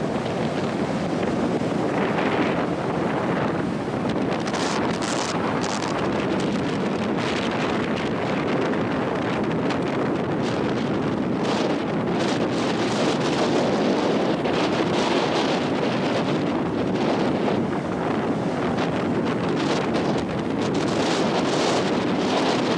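Loud, steady wind buffeting the microphone, a continuous rushing roar.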